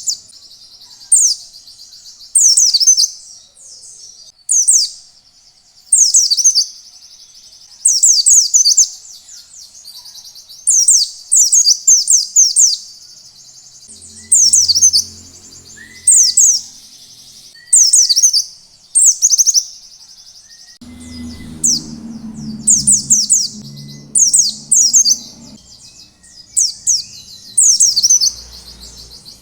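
White-eye (pleci) singing in the 'ngalas' style. Short, high twittering phrases of quickly falling notes come every second or two, loud and bright.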